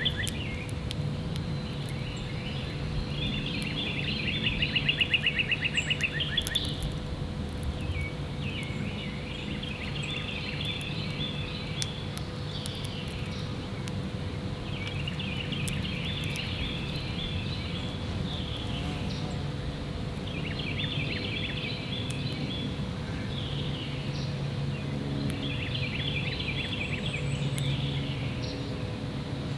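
Songbirds singing in repeated phrases every few seconds, the loudest a fast trill of rapid notes about four seconds in, over a steady low hum.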